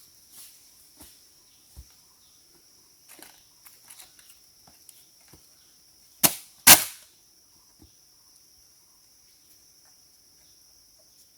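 Two loud sharp cracks about half a second apart, a little past the middle, among scattered light clicks, over a steady high-pitched insect drone.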